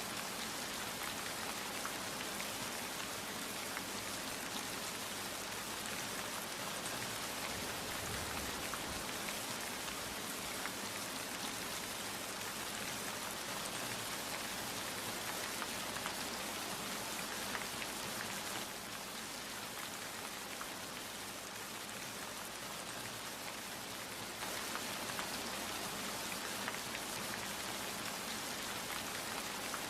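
Steady rain falling, an even hiss of many drops with fine individual patters, easing slightly for a few seconds about two-thirds of the way through.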